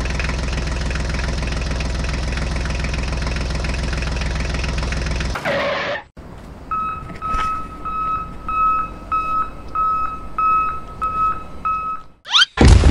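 Tractor engine sound effect running steadily, ending about five and a half seconds in with a short swoosh. Then a vehicle reversing beeper sounds about twice a second, and a second swoosh comes near the end.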